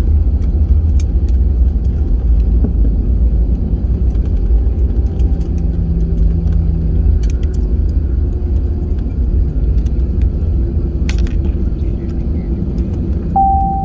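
Steady low rumble inside the cabin of an Airbus A320 around landing, with a few light clicks. A short steady tone sounds near the end.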